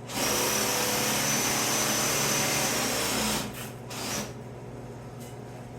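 Small grinder with a cutoff disc running free for about three seconds with a steady high whine, then switched off and spinning down.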